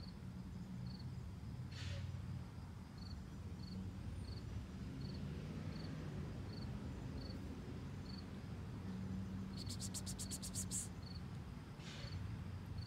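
Steady insect chirping: short high chirps repeating at an even pace, about one and a half a second, over a low outdoor rumble. About ten seconds in, a quick rattling trill of about a dozen clicks lasts under a second.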